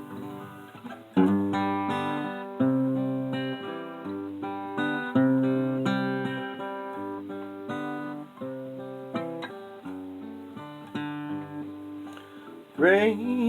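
Acoustic guitar played as a folk song introduction, chords picked and strummed at a gentle pace. A singing voice comes in near the end.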